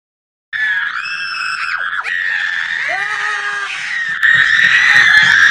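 A person screaming in fright at a tarantula: one long, high-pitched scream that starts suddenly about half a second in and gets louder about four seconds in.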